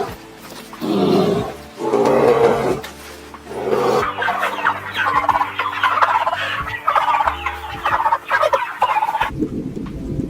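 Fowl calling: three loud calls in the first four seconds, then a dense run of rapid overlapping calls from a flock. Near the end it cuts suddenly to a low rumbling noise.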